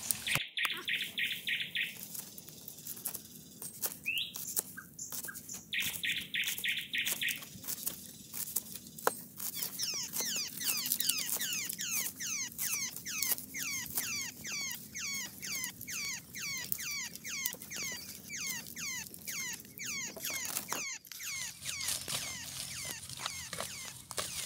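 Birds calling: two short buzzing trills in the first eight seconds, then a long run of quick descending whistled notes, about three a second, lasting some ten seconds. Under them, light knife taps from chopping green onions on a board.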